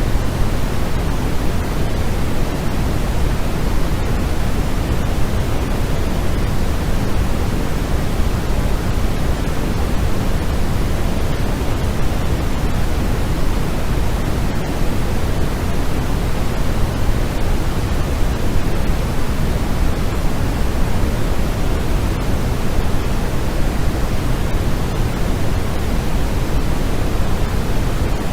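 Continuous electronically generated noise played as white noise for sleep, an even hiss that never changes. It is heavier in the low rumble than in the high hiss, closer to pink noise.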